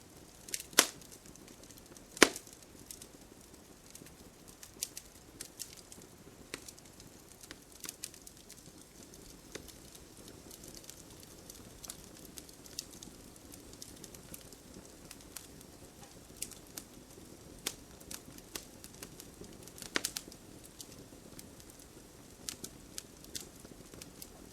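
Campfire crackling: scattered sharp pops and snaps of burning wood over a low steady hiss, with two loud pops in the first couple of seconds and another about twenty seconds in.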